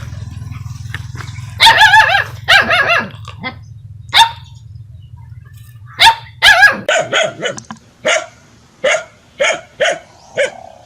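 Dog barking: bursts of quick, high-pitched barks, then a run of single barks about two a second in the second half.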